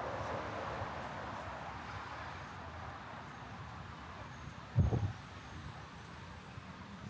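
Street traffic, a vehicle's tyre and engine noise fading as it moves away. About five seconds in comes a brief low buffet of wind on the microphone.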